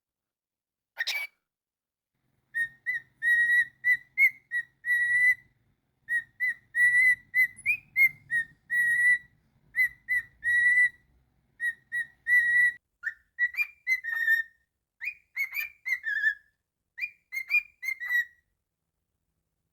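Cockatiel whistling a learned tune: one sharp call about a second in, then a long run of short whistled notes on nearly the same pitch, which turn into sliding, swooping notes in the last few seconds.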